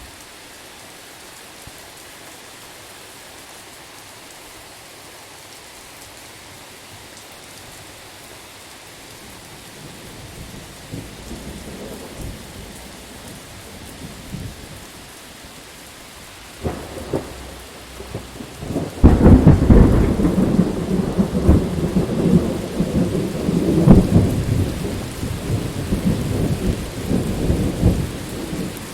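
Steady rain hiss with thunder: a low rumble builds from about a third of the way in, then a loud, crackling peal breaks about two-thirds of the way in and rolls on, fading near the end.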